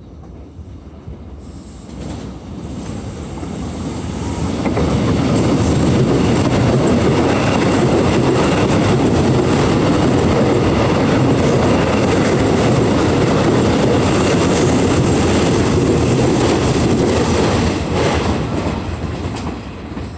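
Electric commuter train passing close by, wheels rumbling on the rails. The noise builds over the first few seconds, holds steady for about twelve seconds, then fades near the end.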